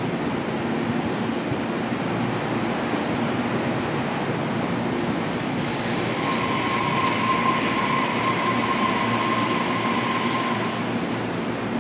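Tobu Noda Line electric commuter train moving slowly along the platform, a steady running noise. About halfway through a steady whine joins it for several seconds, then stops.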